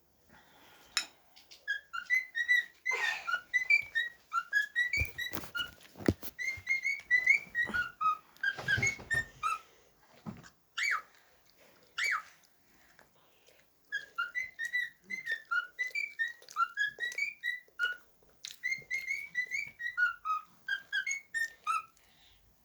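Cockatiel whistling a courtship song: runs of quick, warbling chirped notes with short pauses between them and a few single louder whistles, over some brief rustling.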